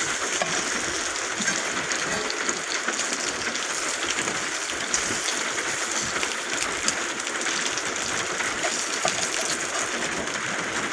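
Bacon sizzling in a pan on a camp stove, with rain falling on the roof: a steady hiss with scattered small pops.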